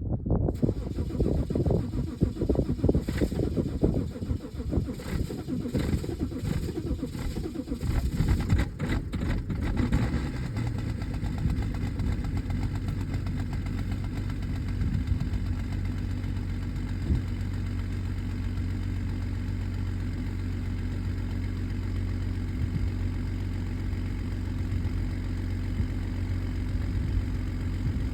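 BMW E91's M57 straight-six diesel engine starting from cold. It catches just after the start, runs unevenly with clattering for about ten seconds, then settles into a steady idle.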